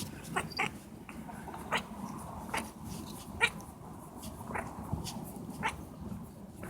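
A cat giving a string of short cries, about one a second at uneven spacing.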